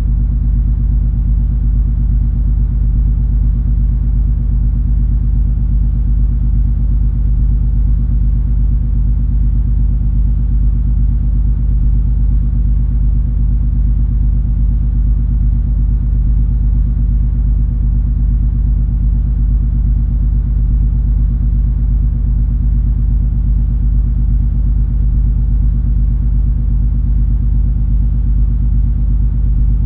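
Steady low rumble and hum of the cruise ferry MS Color Fantasy under way, its engines droning with a few constant tones and no change in pitch or level.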